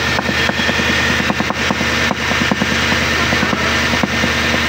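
Nissan Patrol Y62 engine running steadily under the open bonnet, with a fast, even tapping or ticking from the engine bay: the unidentified noise the owner is trying to trace.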